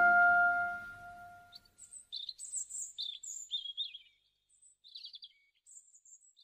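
A held woodwind note fades out in the first second and a half, then small birds chirp in short, quick, high-pitched bursts.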